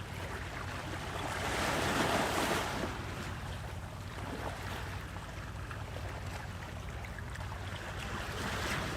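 Sea water rushing and wind noise over a steady low hum, swelling loudest about two seconds in.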